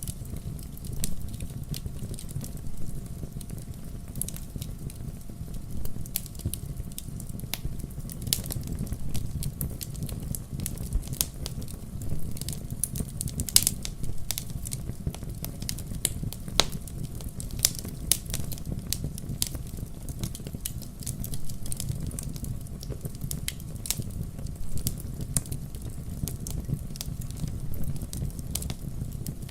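Wood fire in a fireplace: logs burning with a steady low rumble and frequent irregular sharp crackles and pops.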